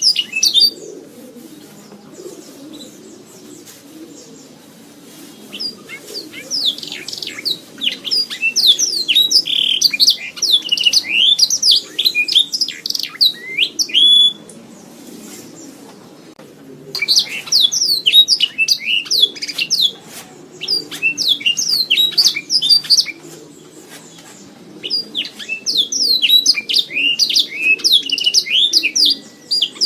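Domestic canary singing: long, fast runs of rapid trills and twittering notes in bursts of several seconds, with short pauses between them, over a faint low hum.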